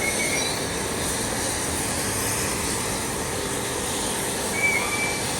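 Steady running noise of workshop machinery, with a faint steady hum and two brief high squeaks, one at the start and one near the end.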